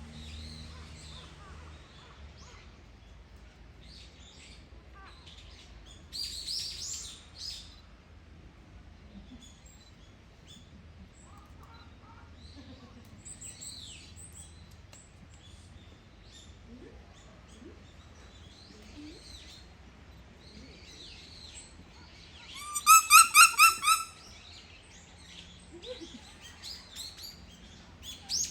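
Bush dogs giving short, high-pitched squeaking calls on and off, with a loud run of about six rapid squeaks a little before the end.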